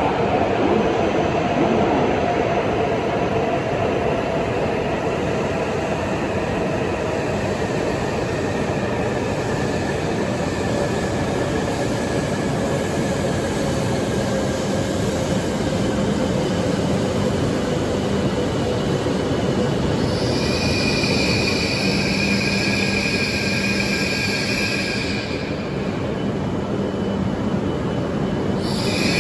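E5 series Shinkansen train rolling slowly into the station, with a whine that falls slowly in pitch as it slows. About twenty seconds in a high squeal sets in for several seconds, and another starts near the end.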